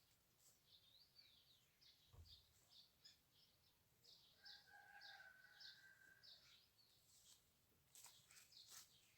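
Faint birdsong: a run of short, high chirps, with one longer held call about four seconds in.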